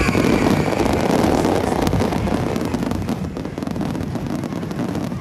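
Aerial fireworks going off: a dense run of many quick cracks and bangs over wind noise on the microphone, easing slightly near the end.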